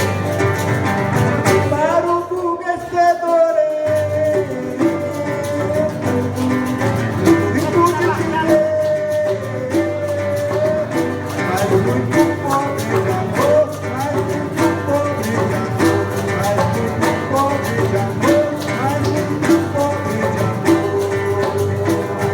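Live acoustic music: a guitar played in a steady rhythm with hand-drum strokes, and a voice carrying a melody line without clear words.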